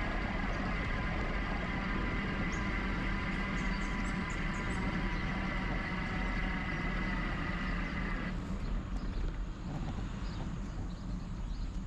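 Wind rumble and road noise on a camera riding on an e-bike, with a steady high whine that cuts off suddenly about eight seconds in.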